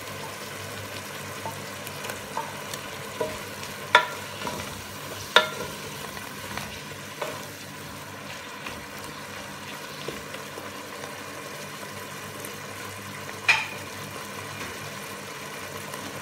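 Chicken strips and sliced hotdogs sizzling in oil in a pan while being stirred with a spatula. A few sharp clinks of the spatula against the pan break the steady sizzle, three of them loud.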